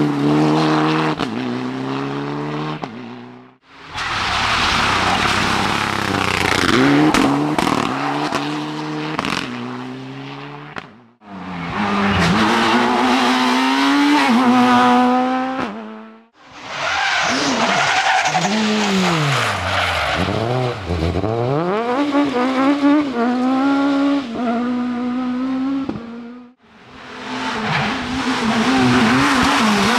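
Rally cars driven hard, engines revving high and falling away through gear changes and braking, then pulling up again. Several separate passes follow one another, each ending abruptly.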